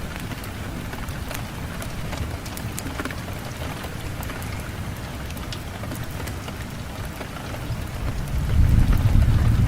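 Steady rain falling, with individual drops ticking sharply on a surface. A low rumble swells near the end and becomes the loudest part.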